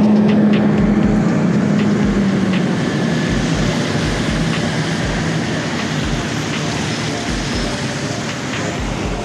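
City traffic on a rain-wet street: a steady hiss of tyres with a vehicle's engine hum that fades away about two and a half seconds in.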